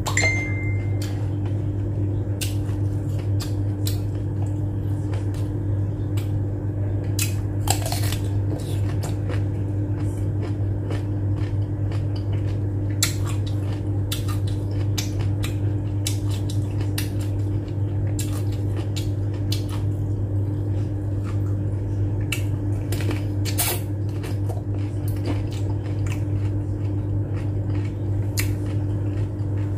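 Crisp clicks and crunches of a raw cucumber being bitten and chewed close to the microphone, over a steady low hum.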